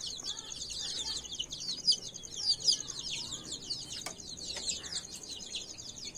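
A crowd of chicks peeping continuously, many short, high, downward-sliding cheeps overlapping, with a few lower clucks from the adult hens.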